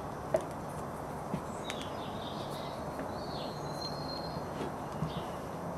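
Faint birds chirping over a steady background hiss: short falling chirps and one longer whistled note about three seconds in. There are a few light clicks, about half a second, a second and a half, and five seconds in.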